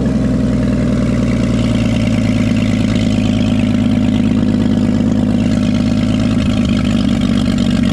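1938 Chevrolet truck's straight-six engine running steadily at idle, settling from a slightly faster speed just as it begins: the engine running again after sitting for 53 years.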